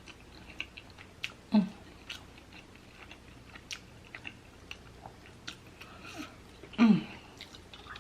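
A person chewing food close to the microphone, with many small wet mouth clicks and smacks. Twice, about a second and a half in and again near the end, she gives a short appreciative hum that falls in pitch.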